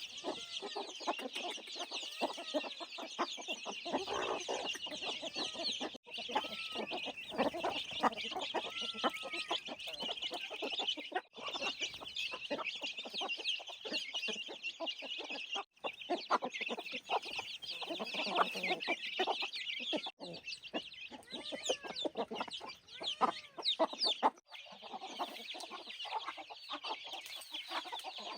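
Chickens clucking and calling continuously, a busy chorus of short high calls over scattered lower clucks, with brief breaks every few seconds.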